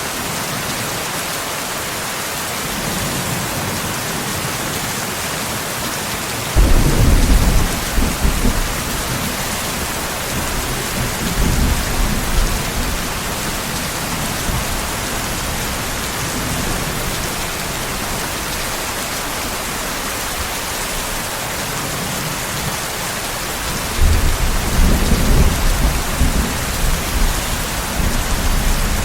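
Steady heavy rain hissing, with two rolls of thunder: one starts suddenly about a quarter of the way in and rumbles for several seconds, and another rumbles near the end.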